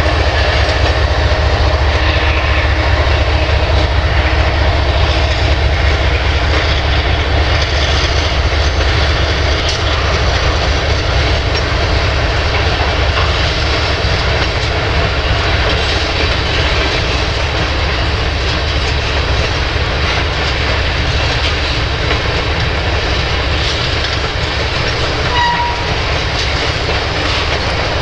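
Covered hopper cars of a slow freight train rolling past, a steady rumble of wheels on the rails.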